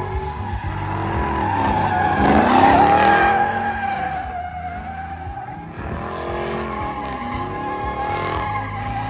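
Truck doing donuts, tires squealing steadily under a revving engine whose pitch rises and falls. The sound swells loudest about two and a half seconds in, and swells again around six seconds.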